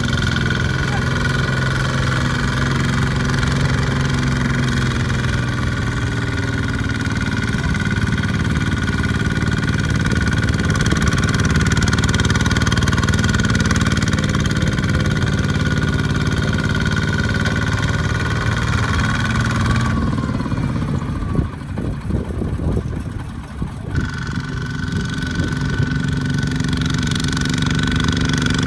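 Small farm tractor engine running steadily. About twenty seconds in, the steady sound breaks for a few seconds into a rougher patch with irregular knocks, then the steady running resumes.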